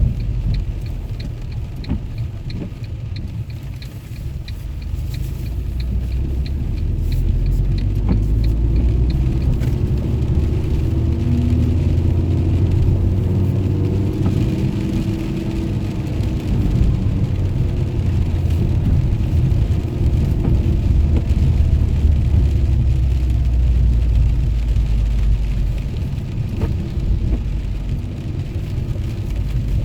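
Abarth Punto Evo on the move, its engine running under a steady low rumble of engine and road noise. The engine note rises and falls gently through the middle.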